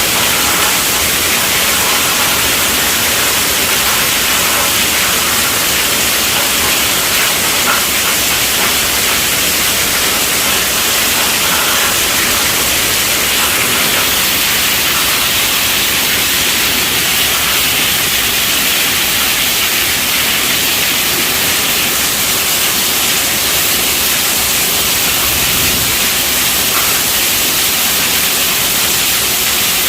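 Heavy rain falling steadily on a tent roof, a dense, even hiss.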